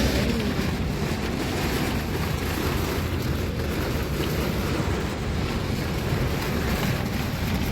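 Heavy rain and wind, with a steady low rumble of wind buffeting the microphone.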